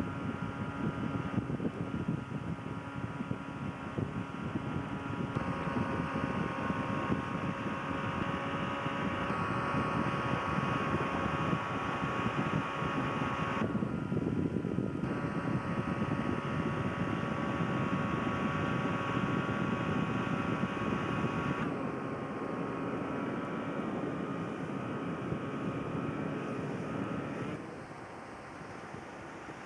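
Boat motor running steadily, a constant hum with wind and water noise, the sound shifting abruptly in level and tone several times and dropping quieter near the end.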